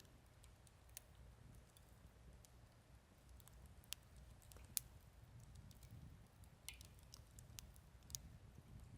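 Wood campfire crackling faintly: scattered, irregular sharp pops and snaps, a sharper one a little before the middle, over a low steady rumble of the burning fire.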